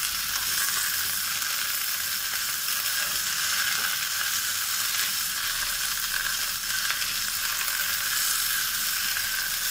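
Chopped okra (bhindi) frying in a little oil in a non-stick frying pan, a steady sizzle, with a wooden spatula stirring the pieces through it.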